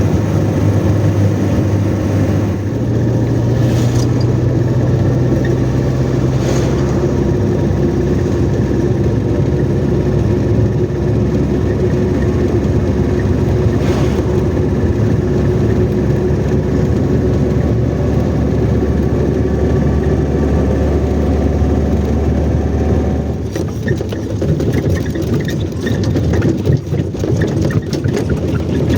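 Car engine running steadily with a low hum; its pitch steps up about two and a half seconds in, and near the end the steady hum falls away to an uneven rumble.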